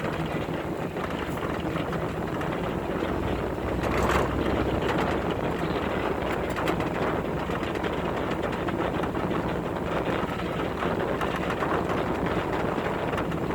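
Two-wheel-drive Chevy's engine running steadily as it drives along a dirt and mud trail, with road and wind noise. Briefly louder about four seconds in.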